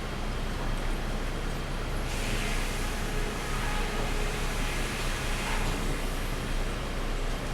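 Sawmill machinery running with a steady low rumble, and a louder hiss from about two to six seconds in.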